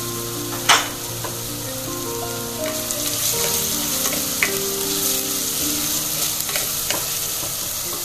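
Crushed shallots, curry leaves and mustard seeds sizzling steadily in hot coconut oil in a clay pot, being sautéed over lowered heat. A few short knocks come as a wooden spatula stirs them.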